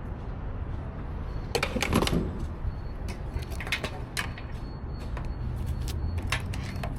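Motorcycle engine idling low and steady, with a series of sharp clicks and knocks over it, the loudest cluster about two seconds in.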